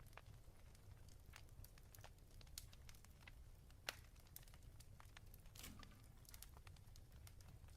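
Faint fireplace crackling: irregular pops and snaps over a low steady rumble, with one sharper pop about four seconds in.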